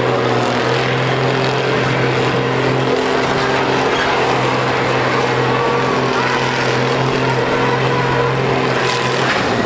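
Combine harvesters' diesel engines running at a steady pitch, with no pauses or impacts standing out.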